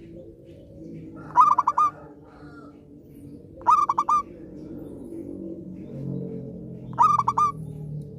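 Zebra dove cooing: three short phrases of about four quick notes each, a couple of seconds apart.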